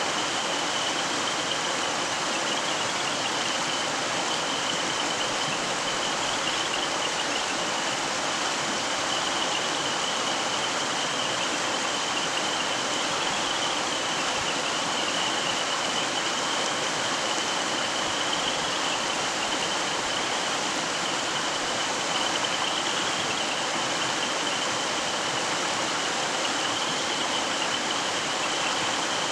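Mountain stream flowing over its bed, a steady, unbroken rush of running water.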